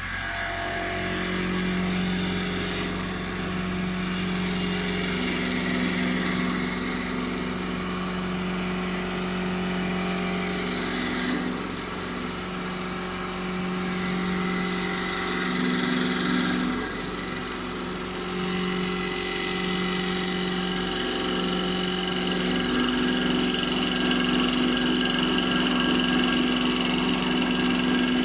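CNC wood-turning lathe running and turning a wooden stair spindle: a steady motor hum under the hiss of the cutter on the wood, which changes in level and tone every few seconds as the cut moves along.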